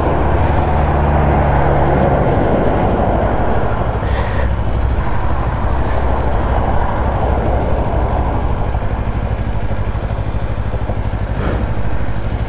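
Kawasaki Ninja 500's parallel-twin engine running, its note dropping about two seconds in as the bike slows, with wind rushing over the microphone that eases after about three seconds.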